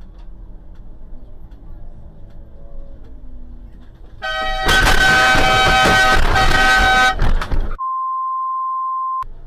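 Car horn blaring from about four seconds in, almost at once buried under about three seconds of loud crashing noise: a road collision. It is followed by a steady single-pitched beep lasting about a second and a half.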